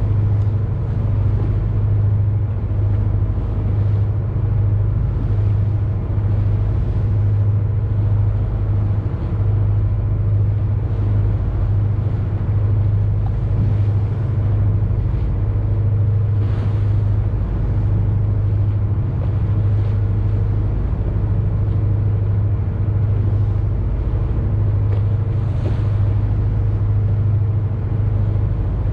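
Boat's engine running steadily: a deep, even drone with a steady hiss above it.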